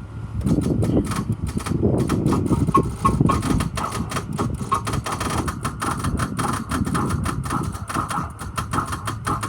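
Starter of a 2006 Ford E-450 Blue Bird bus chattering with rapid clicking over a low grinding rumble as it tries to turn the engine over without starting: a faulty starter, which the auctioneer thinks may be a connection problem.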